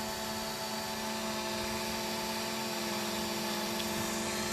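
Quadcopter drone hovering, its propellers making a steady buzzing whine of several held tones.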